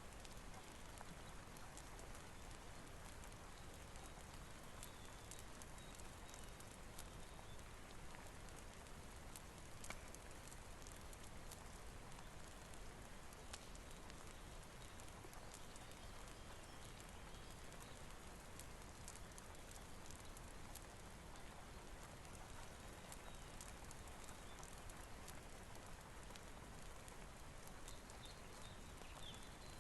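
Steady rain with a wood fire crackling: an even hiss of rain scattered with frequent small sharp crackles and pops.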